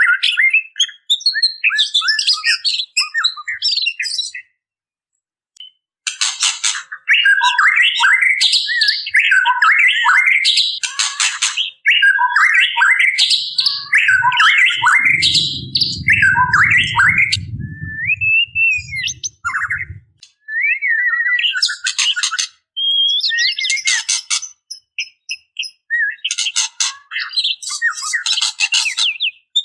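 Female white-rumped shama calling: a rapid run of chirps and whistled glides mixed with harsh rattling calls, broken by a short pause about four seconds in. A low rumble sits under the calls from about fourteen to twenty seconds in.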